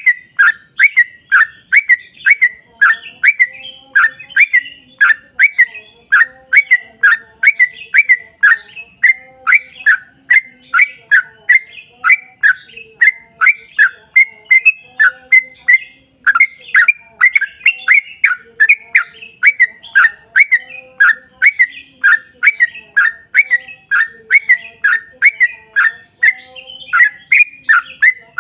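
Yellow-vented bulbul (trucuk) calling in a long, unbroken run of short, sharp notes, about three a second. This is the fast 'ropel' chatter used to stir other trucuk birds into song.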